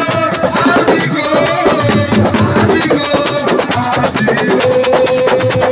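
Live assiko band music: fast, dense drumming with a held melody line over it.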